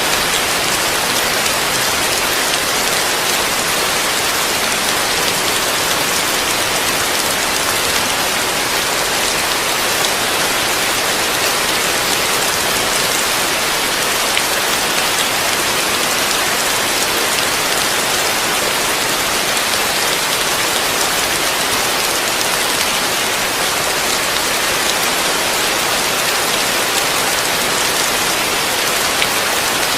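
Heavy rain falling steadily on a roof, heard from underneath: a dense, even hiss of drops with no let-up.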